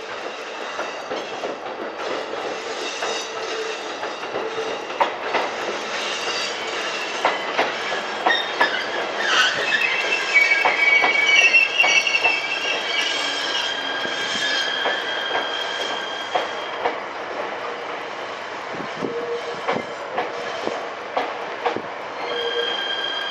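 JR East electric limited-express train running on the rails, its wheels clacking over rail joints. From about nine seconds in, a high wheel squeal lasts several seconds, and it comes back near the end.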